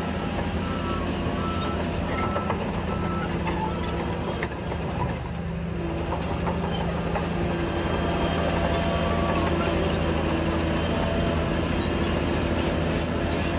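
Heavy diesel engine of a crawler bulldozer running steadily under work, with a reversing alarm beeping evenly for the first few seconds. The engine gets louder from about eight seconds in.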